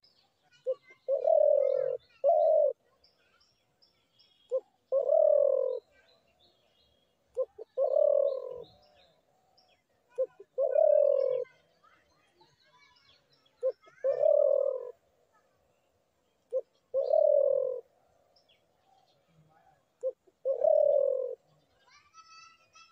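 Spotted dove cooing: seven phrases about three seconds apart, each a short note followed by a longer coo, with faint chirps of other small birds between them.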